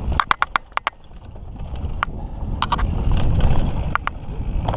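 Mountain bike rolling over a dirt trail: a low rumble of tyres and wind that builds through the middle, with sharp rattles and clicks from the bike, several in the first second and a few scattered after.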